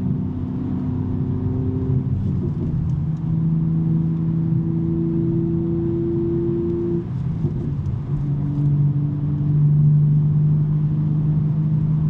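BMW M3 G80's twin-turbo inline-six, fitted with a non-resonated J-pipe exhaust, heard from inside the cabin while driving. Its steady drone drops to a lower pitch twice, about two seconds in and again about seven to eight seconds in.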